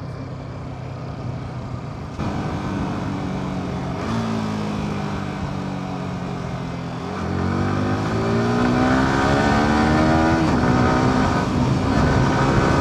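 Yamaha R15's single-cylinder engine under way, running steadily at first, then revving up through a long climb in pitch. The pitch drops suddenly at a gear change about ten seconds in, and the engine pulls on at higher revs.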